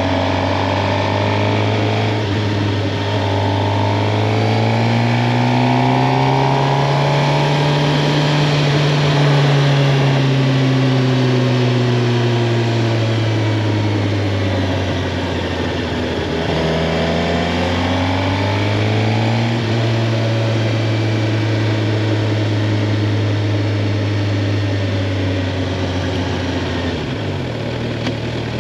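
Suzuki GSX-R 750's inline-four engine running under way, its note rising and easing with the throttle, dipping low about halfway through and climbing again, over a steady rush of wind.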